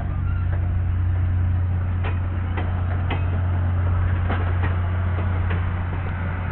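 A train rolling past: a steady low rumble with irregular light clicks and knocks every half second or so.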